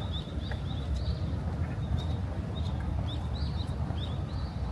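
Small songbirds chirping repeatedly in short, high notes over a steady low rumble of background noise.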